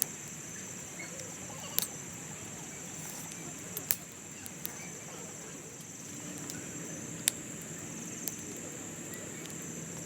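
Autumn insects, crickets, trilling in a steady high chorus, with a few sharp pops from the grill over the campfire.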